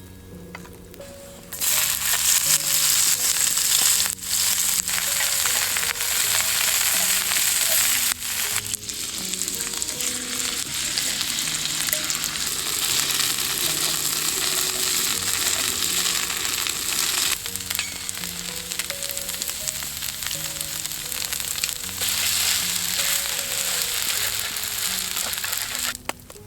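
Food frying loudly in a pan over a campfire, a steady sizzle that starts about a second and a half in, breaks off briefly a couple of times, and stops just before the end, over soft background music.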